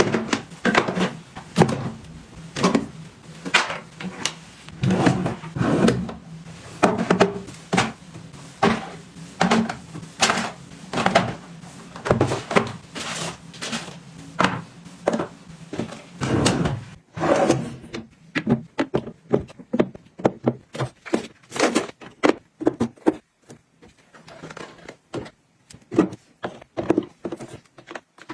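Close handling sounds of products being restocked and organised: a quick, uneven series of taps, clicks and knocks as containers and lids are picked up and set down. A low steady hum sits under the first half and stops about two-thirds of the way through.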